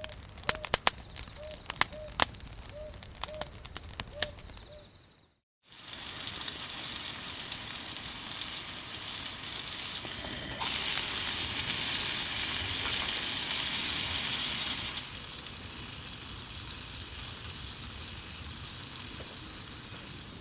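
Food sizzling in the heat of a wood fire, a steady hiss of frying fat. In the first few seconds it comes with frequent sharp pops and crackles. After a cut at about five seconds it turns into smoother sizzling that grows louder and brighter for several seconds, then drops back.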